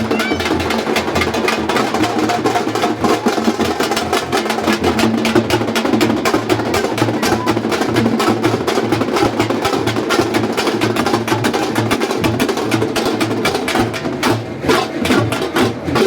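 Fast, loud procession drumming: a dense run of rapid drum strokes that does not let up.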